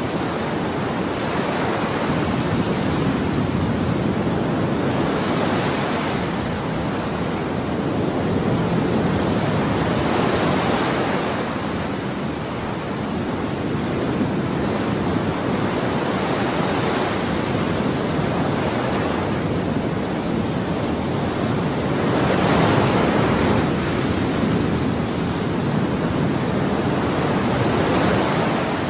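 Ocean surf: a continuous rushing wash with waves surging and receding every few seconds. The biggest surge comes about two-thirds of the way through.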